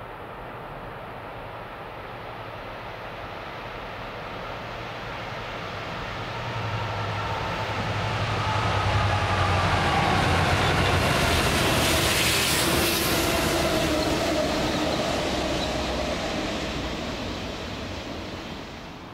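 A train passing at speed: it builds over several seconds, is loudest about ten to thirteen seconds in with a whine that falls in pitch as it goes by, then fades away.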